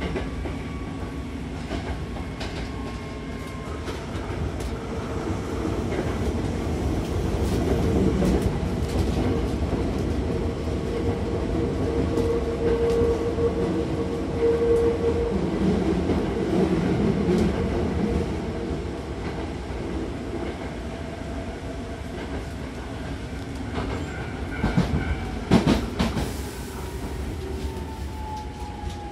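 Hankyu Takarazuka Line commuter train running between stations, heard from inside the car by the doors: a steady rumble of wheels on the track with a humming tone through the middle, and a short burst of louder clacks near the end as it runs into the station.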